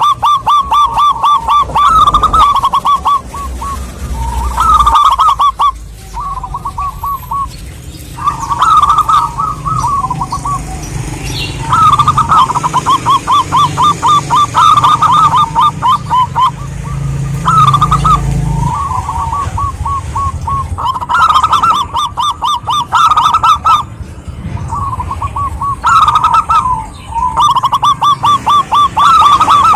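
Zebra doves (perkutut) cooing: phrases of rapid staccato notes that repeat almost back to back, over a low background rumble.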